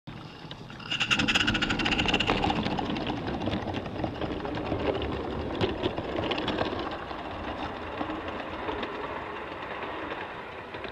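Live steam garden-railway locomotive, an Accucraft Emma converted to a Maine two-foot Forney, running with its train, with quick clicking from the wheels over the track. It is loudest about a second in, where a brief steady high tone sounds.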